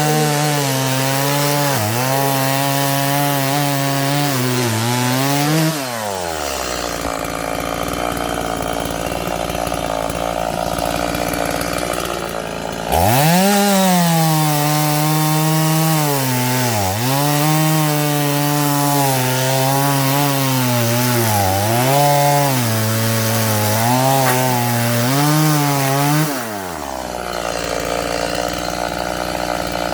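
Chainsaw cutting firewood, its engine at full speed and dipping in pitch every second or two as the chain bites into the wood. It drops to idle about six seconds in, revs up sharply and cuts again, then falls back to idle near the end.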